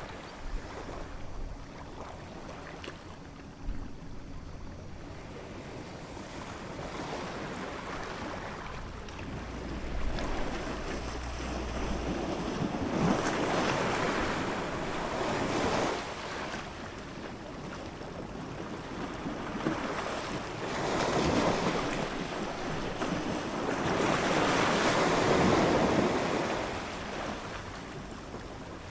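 Ocean waves breaking and washing onto the shore, swelling in several surges that are loudest in the middle and near the end.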